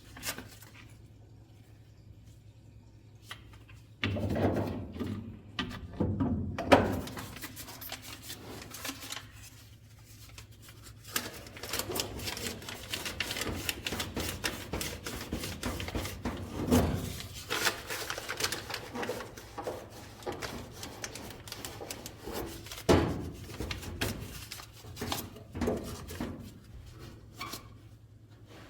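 Irregular clattering, knocks and rubbing of objects being handled, starting about four seconds in, over a low steady hum.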